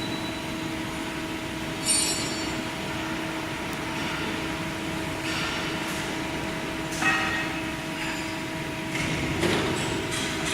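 Metal-cutting band saw running with a steady machine hum, with a sharp ringing metallic clank about two seconds in, another about seven seconds in, and a lighter knock near the end.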